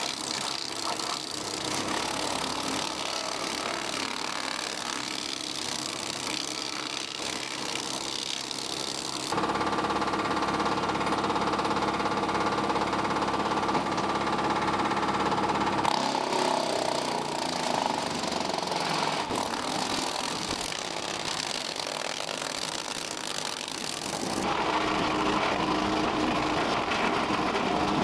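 Three-point-hitch wood chipper driven off a 75 hp diesel tractor, running and chewing through wood, with the tractor's diesel engine under load. The sound shifts abruptly a few times, with a steady engine drone strongest between about 9 and 16 seconds in.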